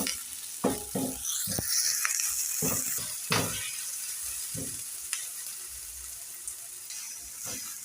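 Onions sizzling in hot cooking oil in a pan, with a spoon stirring them and knocking against the pan several times.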